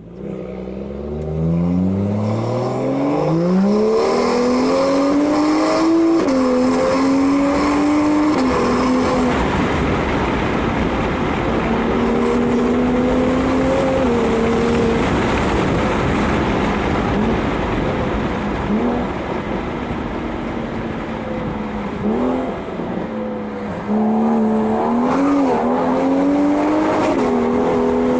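BMW 135i turbocharged straight-six with a straight-piped exhaust, running loud as the car accelerates: the pitch climbs steeply for the first several seconds, then holds with a few drops between gears, and climbs again in short bursts near the end.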